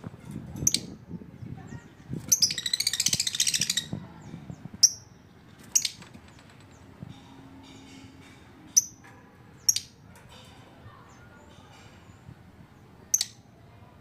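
Lovebird calling: high, sharp single chirps every second or few, with a fast chattering run of calls lasting about a second and a half about two seconds in.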